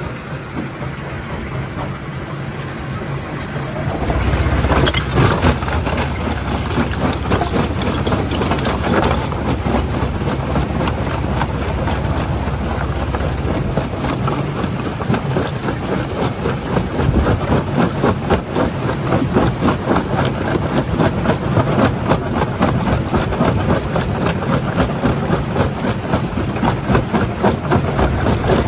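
Primary jaw crusher running and crushing rock: a steady machine rumble under dense rattling and knocking of stone. About four seconds in it grows louder with a heavy deep rumble, which eases off around thirteen seconds as the knocking carries on.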